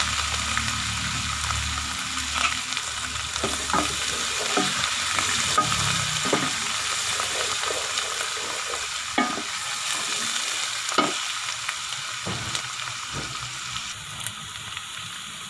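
Onion and spice masala sizzling steadily in hot ghee in a metal pot, with a wooden spoon stirring it and scraping and knocking against the pot now and then. The freshly added ginger-garlic-green chilli paste is frying in the fat.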